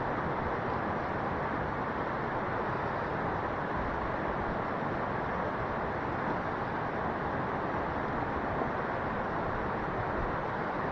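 Steady rushing of flowing water, an even hiss and rumble that stays unchanged throughout.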